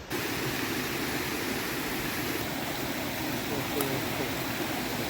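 Steady rush of a mountain creek running over rocks and cascades, an even unbroken noise.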